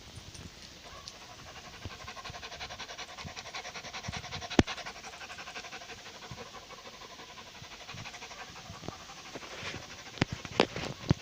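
A cat's rapid, even breathing sounds close to the microphone, with a sharp click about four and a half seconds in and a few more near the end.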